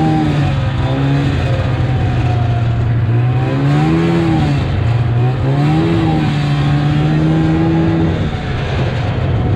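Plow truck engine revving up and easing off several times, its pitch rising and falling, then holding steady for a couple of seconds before dropping off near the end.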